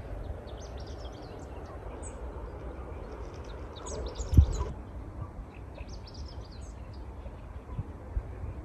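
Small birds chirping and twittering in repeated short high calls over a steady low rumble, with a single thump about four seconds in.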